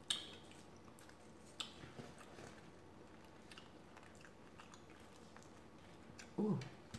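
Soft chewing and mouth sounds, with a sharp click at the start and a few lighter clicks as a wooden spoon scoops creamy curry sauce and rice off a plate; a short hum of the voice near the end.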